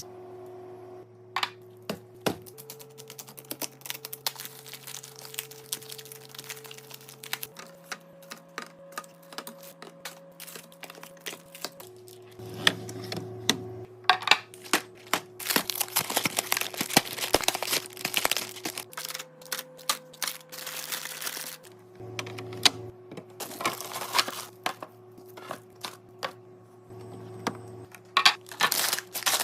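Soft background music of held chords, under a busy run of clicks, taps and crinkles from plastic containers and food packaging being handled and set down.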